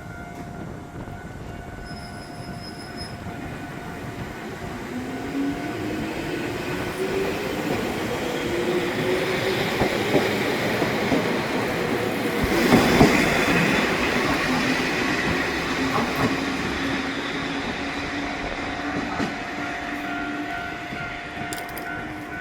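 Electric train pulling out of a station. The traction motor whine rises in pitch as it gathers speed, then holds steady, over wheel and rail noise that is loudest about thirteen seconds in as the cars pass and then eases off.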